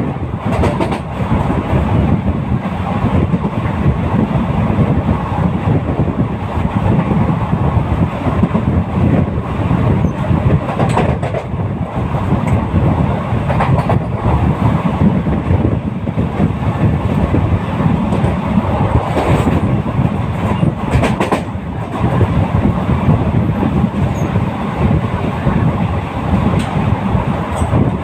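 Moving passenger train running along the track: a steady, loud rumble of the wheels on the rails, with a few brief clicks.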